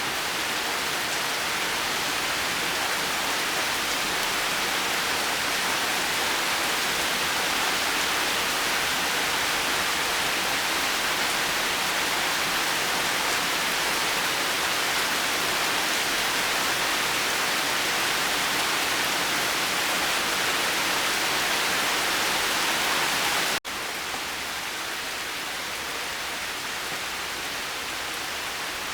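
Steady rain falling, an even hiss with no thunder. About three-quarters of the way through it cuts out for a split second, then resumes slightly quieter.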